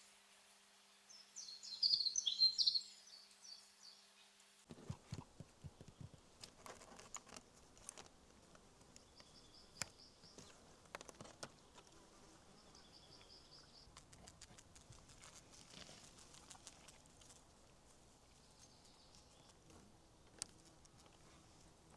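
Bird song: a loud burst of chirps about two seconds in, then fainter bird trills among scattered light clicks and knocks.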